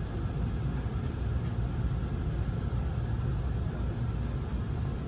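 Steady low rumble inside the passenger car of Shinano Railway's Rokumon sightseeing train as it runs along the line.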